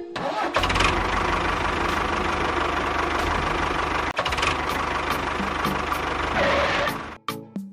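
A tractor-type engine running steadily at idle with a fast knocking beat, cutting off abruptly about seven seconds in.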